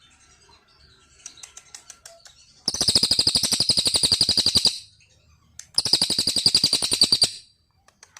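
A small cage songbird singing: a few soft chirps, then two long, very fast high-pitched trills, each about two seconds long with a short pause between.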